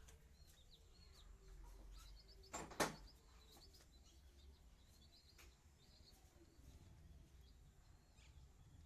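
Near silence with faint bird chirping, and one sharp knock about three seconds in.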